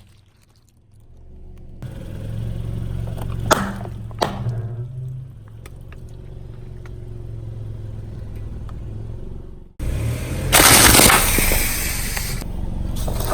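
Car engine running low with its tyre rolling over objects: two sharp cracks about a second apart as something breaks under the wheel. Near the end, after a sudden cut, a loud, sustained crunching and scraping of the tyre crushing more material.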